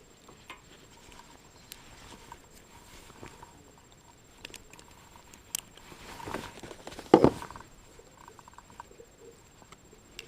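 Handling noises on a fishing kayak: scattered small taps and clicks, with a brief louder rustle and a sharp thump about seven seconds in, as a freshly caught small black bass and tackle are handled.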